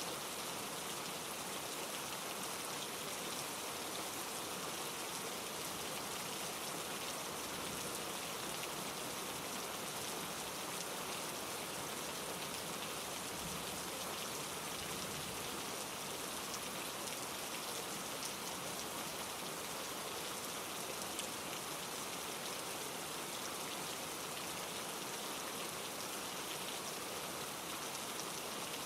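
Steady rain falling and pattering on surfaces, with a mountain stream rushing over rocks beneath it.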